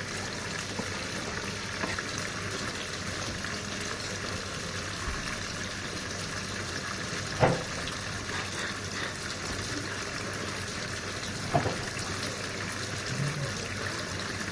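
Sharp washing machine filling with water: a steady rush of water into the drum, with two brief knocks about four seconds apart.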